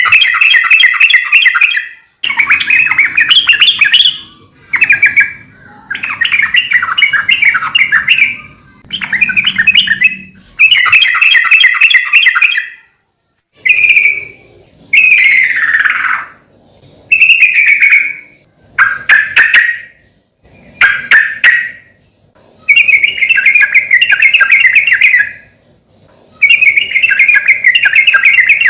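Yellow-vented bulbul (trucuk/cerukcuk) singing vigorously: a run of loud, bubbly, chattering phrases, each a second or two long with short pauses between them. A few notes slide downward in pitch.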